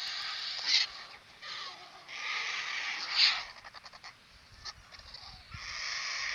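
Harsh, raspy bird calls, about four of them, each drawn out for half a second to a second and a half.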